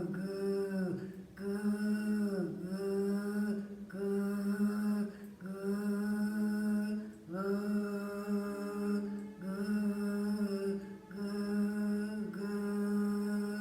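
A woman's voice chanting the throat sound of the lower danjan, likened to an angry tiger: a steady low tone held in phrases of one to two seconds with short breaths between. It is a vocal exercise meant to send vibration down to the abdomen.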